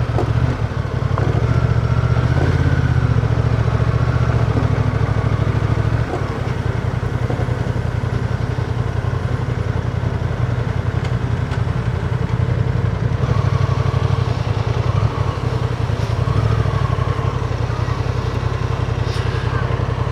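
Adventure motorcycle engine running steadily as the bike is ridden, its note dropping about six seconds in and changing again about halfway through.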